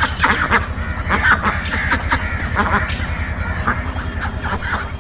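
Birds calling, many short repeated calls overlapping, over a low, rapidly pulsing drone.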